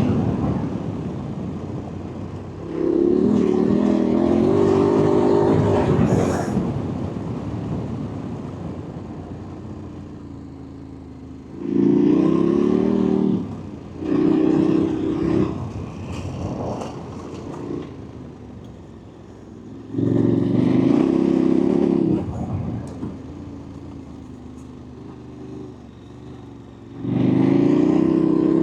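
KTM 1290 Super Adventure's V-twin engine under hard throttle in about five separate bursts, each a second to a few seconds long, with steady wind and road noise between them as the bike rolls on off-throttle.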